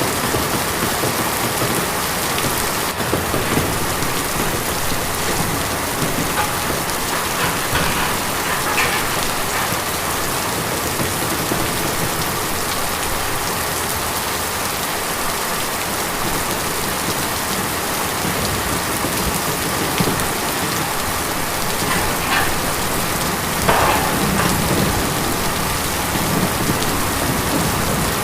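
Steady rain falling on a tin roof, with a few louder individual drops striking now and then.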